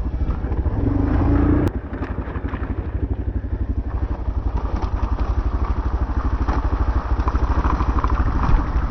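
Adventure motorcycle engine running on a muddy trail, its firing pulses steady and even. About a second and a half in, a short louder stretch cuts off abruptly as the throttle closes.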